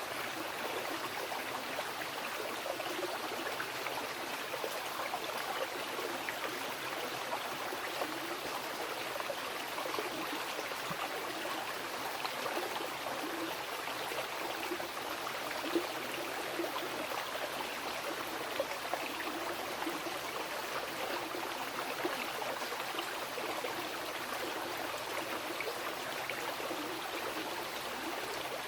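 Mountain river rushing and splashing steadily over rocks, a constant wash of water with small gurgles and splashes throughout.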